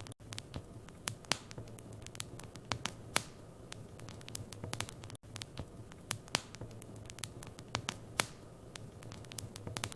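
Wood fire in a fireplace crackling, with irregular sharp pops and snaps over a low steady hum.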